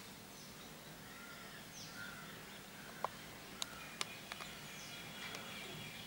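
Faint distant bird calls over quiet room noise, with a few light clicks near the middle.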